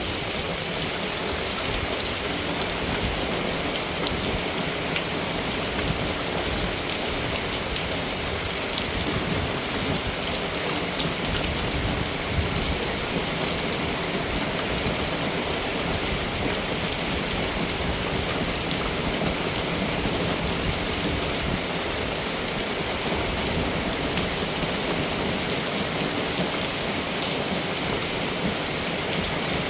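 Steady rain falling and pattering on surfaces, with scattered louder individual drop hits.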